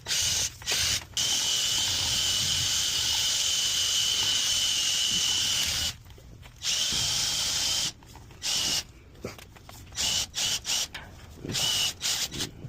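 Power drill spinning a rotary dryer-vent cleaning brush, a steady high whine. It runs unbroken for about six seconds, then is switched off and on in a string of short bursts.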